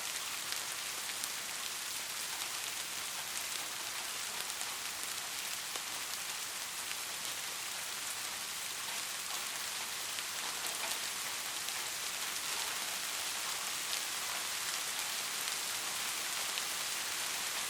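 Steady rain falling on a roof: an even hiss dotted with many small, sharp drop ticks.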